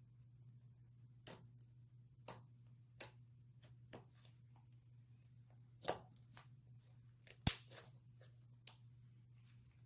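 Hands squeezing and stretching slime, giving scattered soft clicks and pops, with two louder pops in the second half, over a faint low hum.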